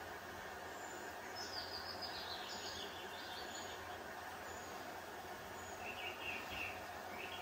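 Small birds chirping in short, quick phrases over a steady background hiss, with one run of chirps in the first few seconds and another near the end.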